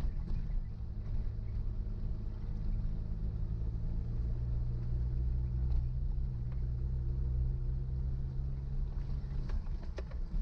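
Suzuki Jimny's engine running steadily under way: a low, even hum, with a few light clicks and knocks now and then.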